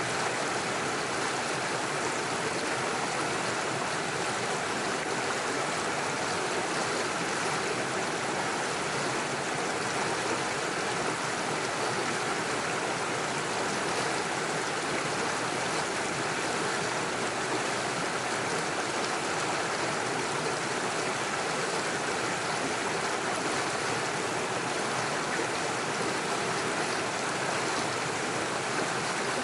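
Small stream rushing and splashing steadily over stones and small waterfalls.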